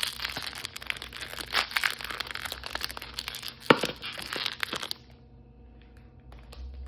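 A blind-bag wrapper is crinkled and torn open by hand: dense crackling and rustling with one sharp snap just under four seconds in. The handling stops abruptly about five seconds in, leaving only a few faint taps.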